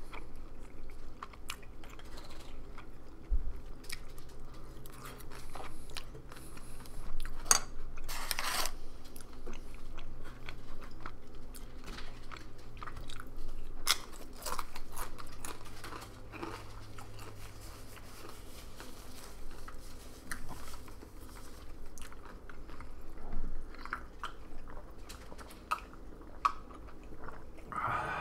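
Close-miked chewing and biting of Mexican takeout food, with sharp crunches scattered throughout, over a faint steady low hum.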